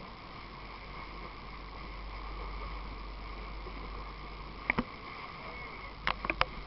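Steady background wash of a boat on the water with a low hum. A sharp click comes about three-quarters of the way in, then a quick cluster of three or four clicks near the end.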